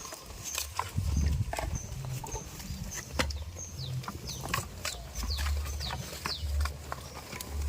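Birds chirping in many short, high, falling notes, over intermittent low rumbling and a few clicks.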